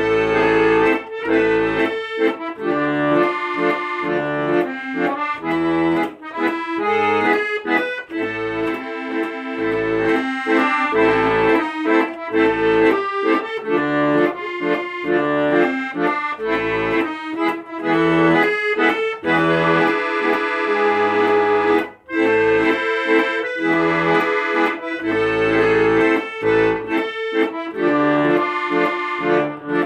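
Accordion playing a tune: sustained chords over a regular bass accompaniment.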